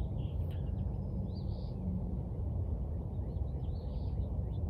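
Birds chirping now and then, several short calls, over a steady low background rumble.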